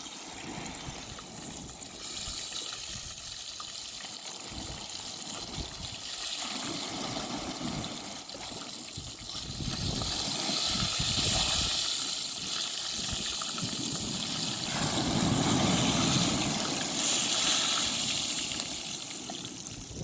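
Sea waves washing onto the beach, a hiss that swells louder and fades several times.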